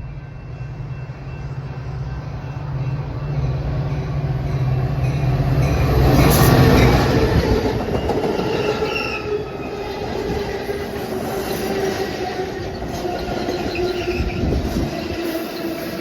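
A train passing close by: a diesel locomotive's low engine rumble grows louder and peaks about six seconds in, then the cars roll past with wheels squealing against the rails.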